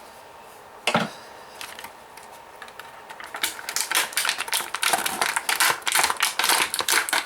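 Plastic toy packaging being handled: one knock about a second in, then a rapid, uneven run of clicks and crinkles from about three seconds on.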